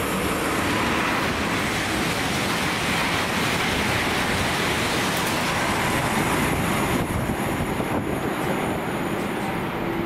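A train passing on the main line: a steady rushing noise of wheels on rail and moving air, which builds in just before and holds loud throughout.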